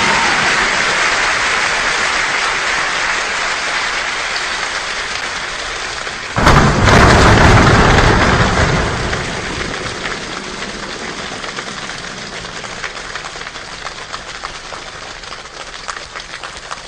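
A choir imitating a rainstorm with body percussion, giving a steady rain-like patter. About six seconds in it jumps suddenly to a loud downpour for two or three seconds, then dies away gradually into scattered separate clicks and pats, like the rain thinning out.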